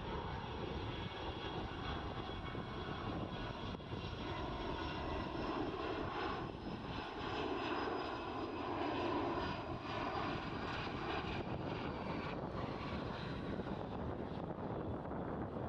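Dassault Falcon 50M's three Honeywell TFE731 turbofan engines passing in flight: a steady jet rush with a faint high whine that slowly falls in pitch, loudest about halfway through.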